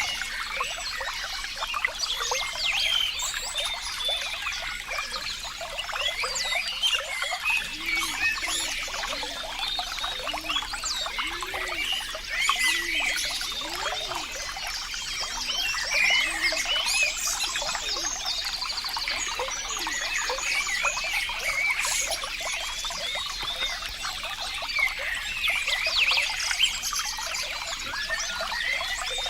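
Running water trickling and babbling continuously, with the constant splash of a small stream or fountain.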